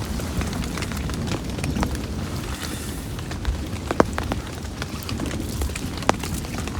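Heavy rain falling steadily, with scattered sharp ticks and pops of drops striking close by and a couple of louder cracks.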